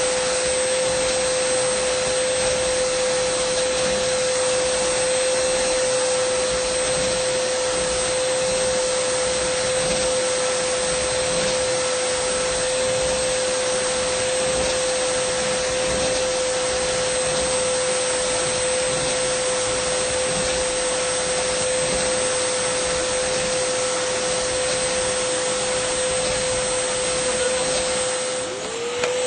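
Dyson vacuum cleaner running steadily: rushing air with a constant mid-pitched motor tone and a thin high whine. Just before the end the sound dips briefly and the tone slides back up.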